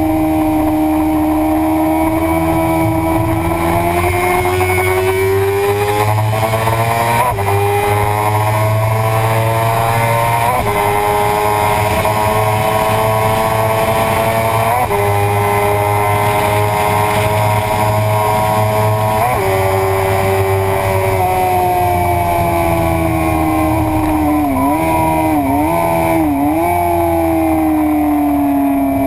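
Suzuki sportbike engine at high revs, heard from on the bike with steady wind rush. The revs climb, then hold high with a few brief hitches. Later they fall away as the bike slows, with three quick blips on the downshifts.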